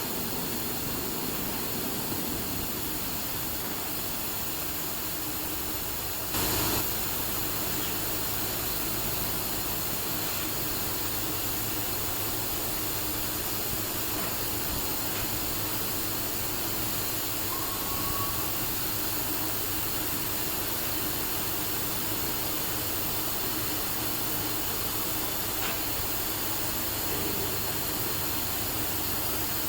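CNC machining center running: a steady hum and hiss, with a brief louder burst about six seconds in.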